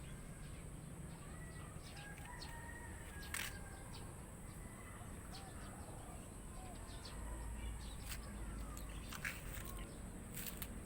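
Pet birds calling faintly, with short chirps and scattered clicks; a sharper click comes about three and a half seconds in, and a small cluster near the end. A steady high hiss runs underneath.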